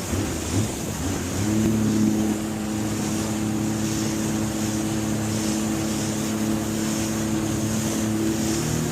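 Jet ski engine running at a steady high pitch, settling in about a second and a half in and shifting pitch slightly near the end, with wind buffeting the microphone.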